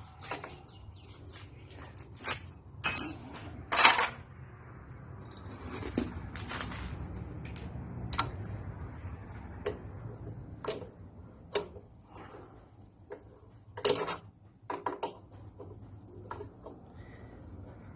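Metal tools and engine parts clinking and clanking at irregular intervals while the cylinder head of a Lister SR3 diesel engine is unbolted, with a few louder clanks near the start and again toward the end.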